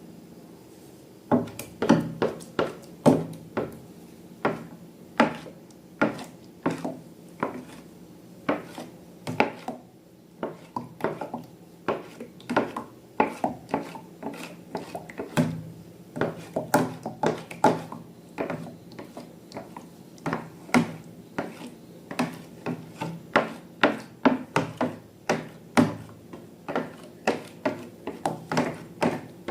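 Slime being mixed and handled: a run of irregular sharp clicks and taps, about two to three a second, starting about a second in.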